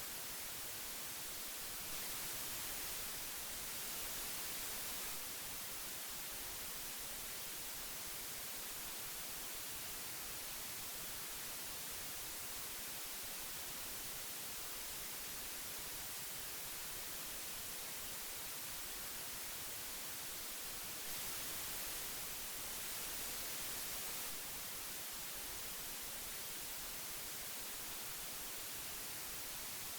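Old analogue tape hiss: a steady, even hiss weighted toward the high end, swelling slightly louder twice for a few seconds.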